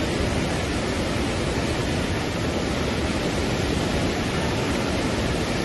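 The Alaknanda river in flood, swollen above its danger mark after heavy rain, its fast water rushing steadily.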